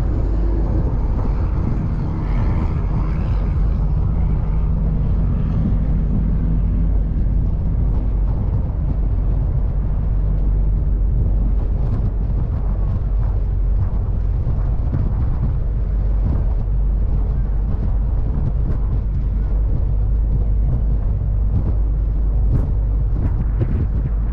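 River ferry's engine running, a steady loud low drone with a few faint tones over it in the first several seconds.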